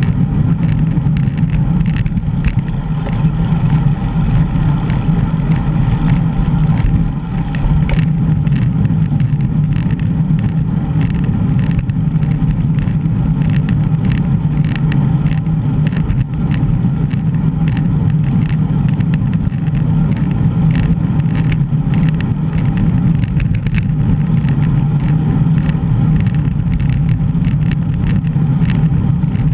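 Steady wind and road rumble on a bicycle-mounted GoPro while riding, with frequent small clicks and rattles.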